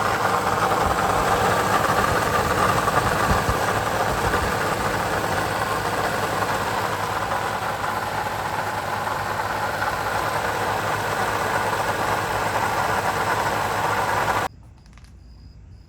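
2020 Toyota Sienna's 3.5-litre V6 idling with a rattle or growling noise from the front of the engine, the sign of a worn water pump bearing. The noise cuts off suddenly near the end.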